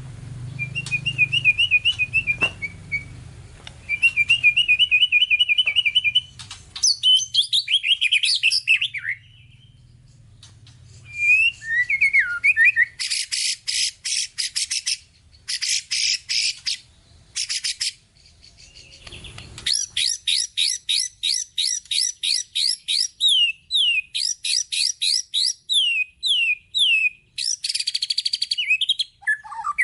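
White-rumped shama singing a long, varied song full of mimicked phrases: short warbled trills, swooping whistles, harsh buzzy rattles, and a long run of quick down-slurred notes about three a second in the second half.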